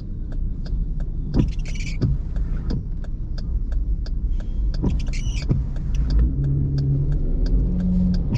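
Car running on the road, heard from inside the cabin: a steady low engine and road rumble with scattered light clicks. A low engine hum rises in over the last couple of seconds.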